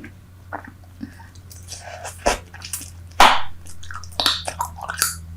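Close-miked wet chewing, smacking and clicking of Super Bubble bubble gum, irregular, with one loud sharp smack about three seconds in.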